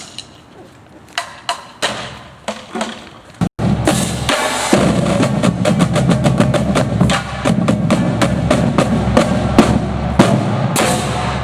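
Drum corps drum line playing: a few scattered drum strikes, then about three and a half seconds in the full battery starts a loud, dense passage of snare and bass drums.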